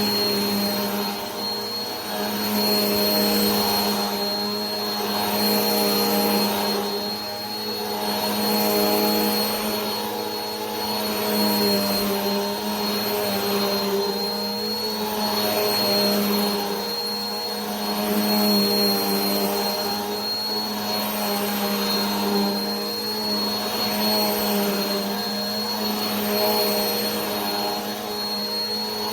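Vacuum cleaner running steadily: a constant motor hum with a thin high whine. The rush of air swells and eases about every two seconds.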